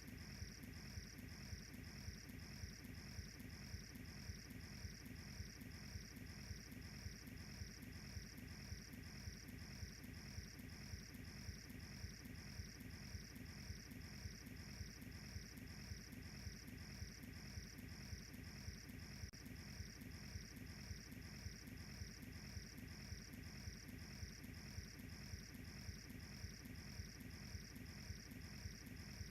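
Crickets chirping in a steady, evenly spaced rhythm, over the low, steady sound of a wood fire burning with faint crackles.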